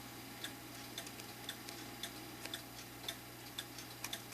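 Mechanical clock ticking quietly and evenly, about two ticks a second.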